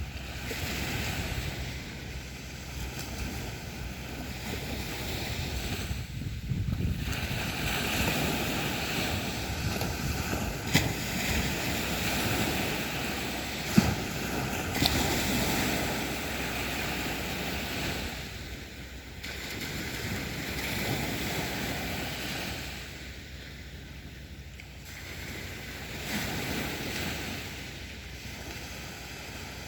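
Sea waves washing onto the beach, swelling and ebbing in slow surges, with a few brief sharp clicks near the middle.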